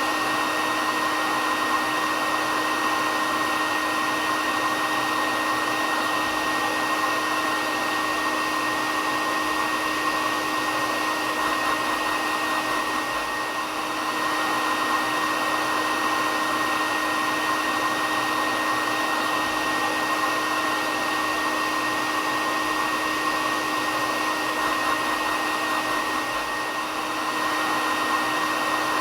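Hair dryer running steadily: a continuous rush of air with a steady motor whine, dipping slightly in level twice.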